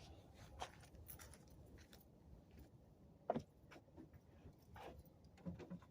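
Near silence with scattered faint clicks and taps, one sharper knock a little over three seconds in.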